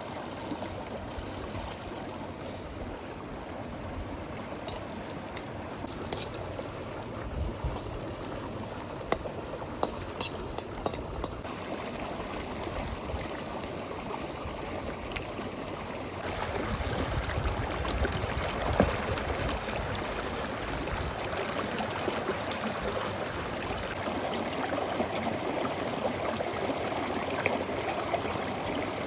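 River water flowing steadily, with a few light clicks in the first part; the rushing gets louder a little past halfway.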